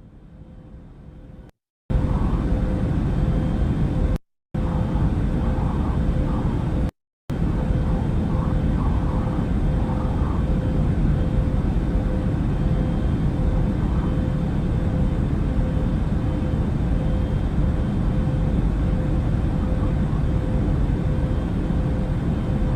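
Recorded aircraft noise played back through a speaker: a steady, loud, low rumble with a faint constant whine, cutting out briefly three times in the first seven seconds.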